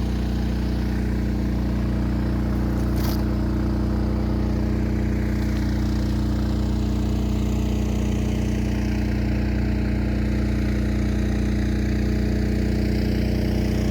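DJI T40 agricultural spray drone's propellers and motors droning steadily in flight, a steady multi-toned hum with a slowly shifting hiss above it. A short sharp click about three seconds in.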